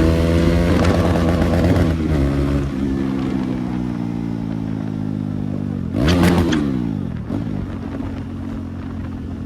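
KTM Duke 390 single-cylinder engine running with no exhaust fitted. The engine note falls steadily as the bike rolls off the throttle. About six seconds in there is a quick throttle blip with a few sharp cracks, then the engine settles to a lower, steadier note.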